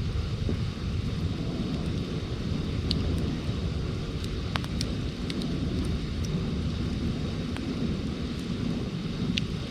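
Campfire crackling, with a few sharp pops scattered through, over a steady low rumble.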